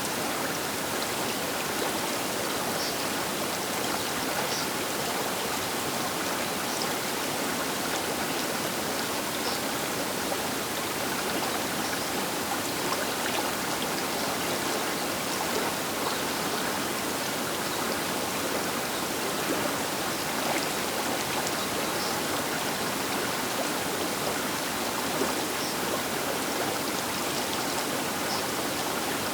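Baker River flowing past its bank: a steady, even rush of water with faint small splashes scattered through it.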